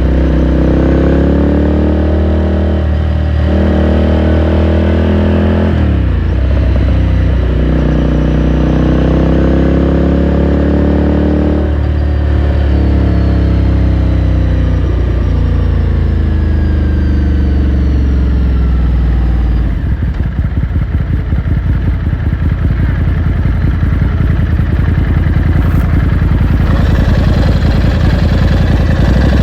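Ducati Scrambler Sixty2's 399 cc air-cooled L-twin pulling through the gears, its pitch climbing and dropping back at upshifts about 3, 6 and 12 seconds in. About two-thirds of the way through it comes off the throttle to a low, pulsing rumble.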